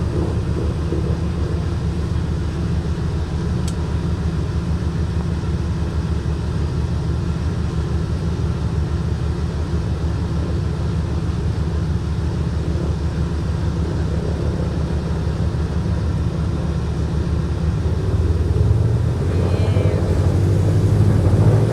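The Douglas C-53D's Pratt & Whitney R-1830 Twin Wasp radial engines running with a steady low drone, growing louder over the last few seconds as power comes up for takeoff.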